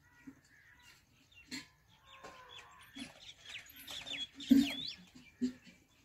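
Birds chirping outdoors: a quick run of short, downward-sweeping chirps in the middle, with scattered short, low clucking calls. A single sharp knock comes about three-quarters of the way through and is the loudest sound.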